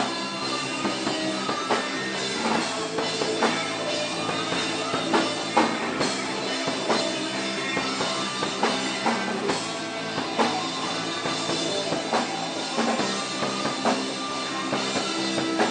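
Rock band music with a drum kit keeping a steady beat under electric guitar.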